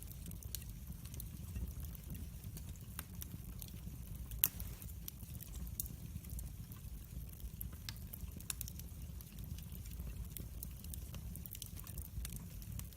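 Wood fire burning in a fireplace: irregular sharp crackles and pops over a low steady rumble of the flames, with one louder pop about four and a half seconds in.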